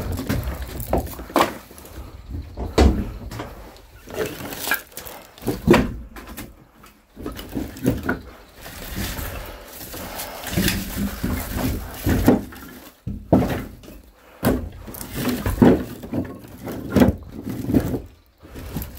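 Bundles of firewood being handled and set down on a stack, giving irregular wooden knocks and thuds about once a second.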